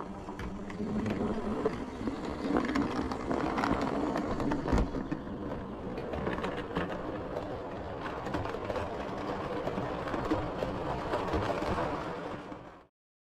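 Model railway locomotive running along the track: a steady motor whir with frequent sharp clicks of wheels over rail joints. It fades out near the end.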